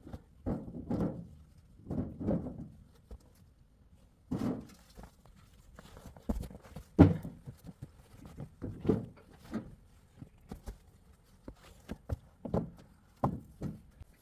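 A series of irregular thuds and knocks, about a dozen, the loudest about seven seconds in.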